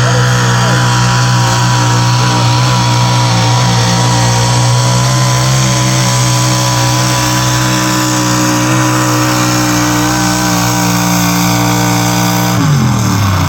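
Pulling truck's engine held at steady high revs, then winding down in pitch near the end as the throttle comes off.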